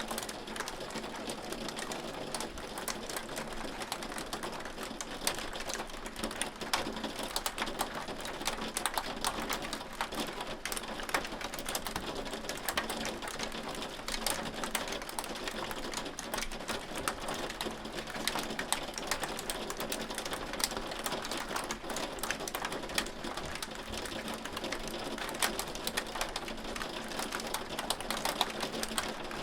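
Hailstones falling and striking a hard surface: a dense, steady run of small sharp ticks over a hiss.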